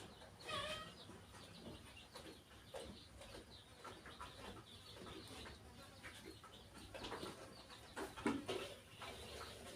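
Faint, scattered bird calls, with a few louder ones about seven to nine seconds in.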